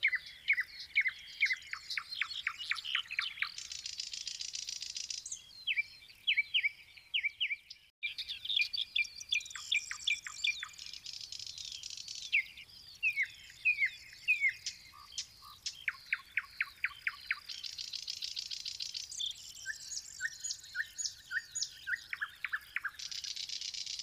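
Songbirds singing: quick runs of sharp down-slurred whistled notes and trills, broken every several seconds by short buzzy stretches of higher, hissing sound.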